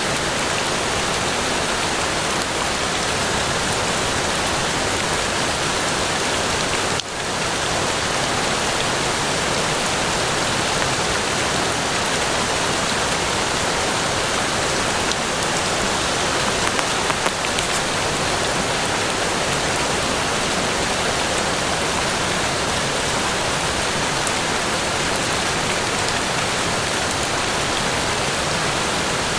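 Steady rain falling, an even hiss of drops with no let-up, with a momentary dip in level about seven seconds in.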